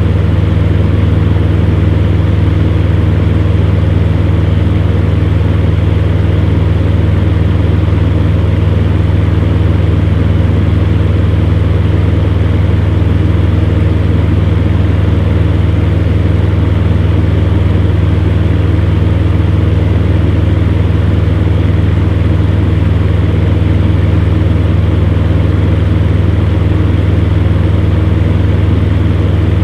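Electric fan heater running steadily: a constant low hum with a few steady tones from the fan motor over an even rush of moving air, unchanging throughout.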